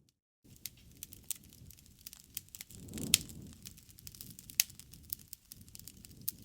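Wood campfire crackling, with irregular sharp pops and snaps over a low rustle of flames. The fire swells with a low rush about three seconds in, topped by a loud pop, with another loud snap a little later. The sound drops out completely for a moment at the very start.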